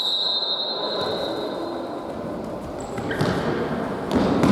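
A referee's whistle blast in an indoor sports hall, a single steady high tone that fades away with the hall's echo. About three seconds in it gives way to thuds of the ball on the court and general hall noise.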